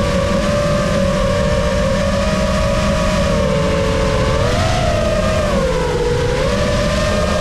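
Brushless motors of a 5-inch Lumenier QAV-S FPV freestyle quad whining in flight, several close tones rising and dipping together as the throttle changes, over a steady low rush of propeller wash.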